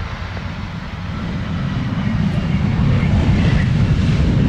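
Aircraft engine rumble growing louder from about a second in as an aircraft moves near the airfield, then holding at a steady loud level.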